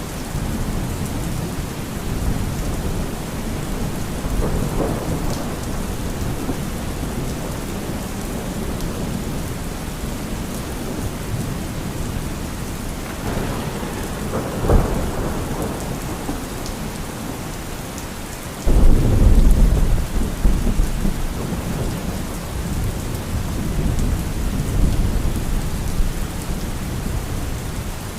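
Steady rain with thunder. A low rumble comes about five seconds in and a sharper crack near the middle, then a loud thunderclap about two-thirds of the way through rumbles on for several seconds.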